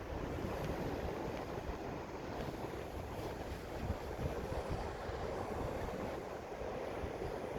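Sea waves breaking and washing onto the shore in a steady rush, with wind buffeting the microphone.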